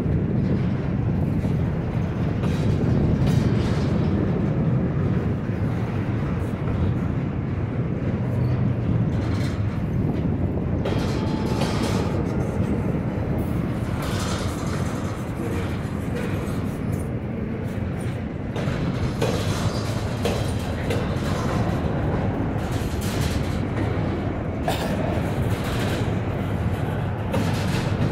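Double-stack intermodal freight train's well cars rolling past: a steady rumble of steel wheels on the rails, with scattered clanks and rattles from the cars.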